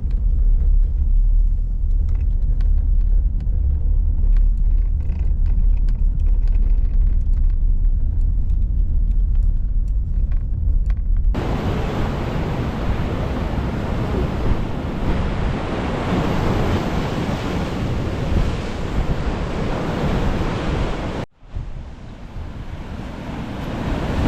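Strong wind buffeting the microphone as a deep, steady rumble. About eleven seconds in, an abrupt cut brings a loud, even wash of ocean surf and wind. Near the end another cut drops it to a quieter wash.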